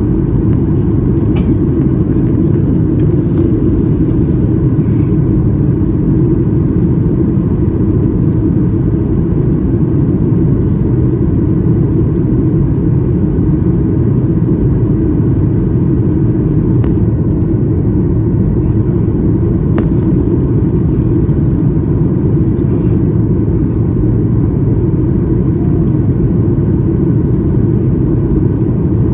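Steady roar of a Boeing 737 MAX 8's engines and airflow heard inside the passenger cabin, an even low rumble that holds unchanged.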